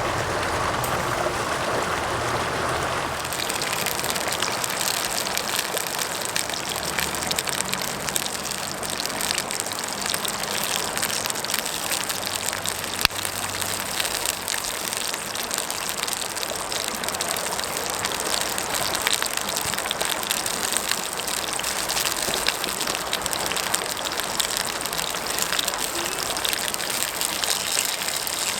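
Sausages sizzling in a skillet over a campfire: a dense crackling hiss that comes in about three seconds in, over the steady rush of a stream. One sharp pop near the middle.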